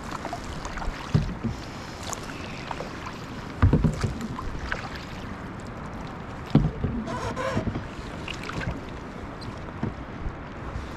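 Kayak paddling: paddle strokes in the water over a steady wash, with a few sharp knocks, loudest about four seconds in and again past six seconds.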